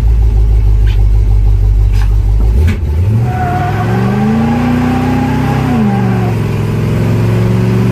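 Vehicle engine with a deep low rumble that revs up about 2.7 s in, holds high for a few seconds, drops back about 6 s in, then slowly climbs again.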